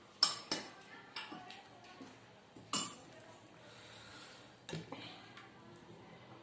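Scattered clinks and knocks of eating utensils against a plate or bowl during a meal, about seven separate sharp strikes, the loudest a quarter second in and just before three seconds.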